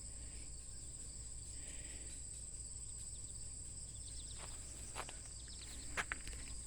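Crickets or other insects chirping steadily in a high, even drone, with a few light clicks in the last couple of seconds.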